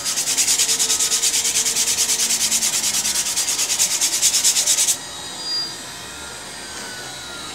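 CNC router engraving, the bit cutting into the workpiece with a loud scratchy hiss that pulses in rapid, even beats. It stops abruptly about five seconds in, leaving the machine's quieter running sound.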